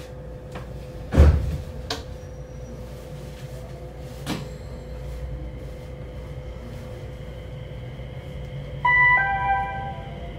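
Electric local train running, heard from inside the carriage: a steady low rumble under a faint constant hum. A heavy thump comes about a second in, with a few lighter clicks after it. Near the end there is a brief two-note tone, the second note lower.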